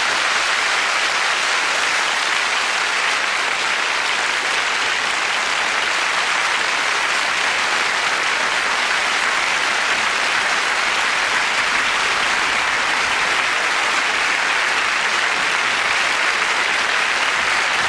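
Studio audience applauding steadily after the song ends.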